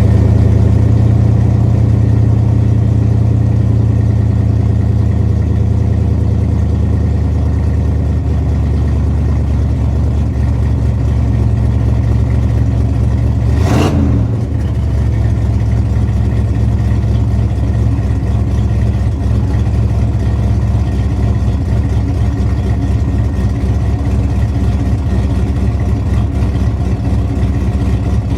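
1996 GMC Sierra dually pickup engine idling steadily just after a cold start, with one brief sharp sound about halfway through.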